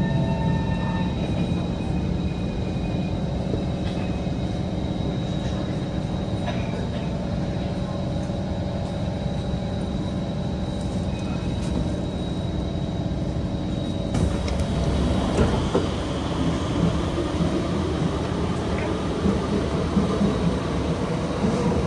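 Inside a Kawasaki C151 metro train, the steady hum of the running gear and wheels on the rails. About 14 seconds in the sound changes to a wider noise with scattered clicks and rattles.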